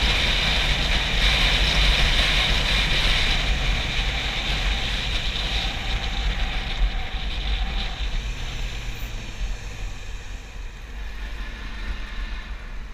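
Heavy wind buffeting on the GoPro microphone of a moving Yamaha YZF R6 sport bike, with the bike's inline-four engine faintly underneath. The wind noise eases off gradually toward the end.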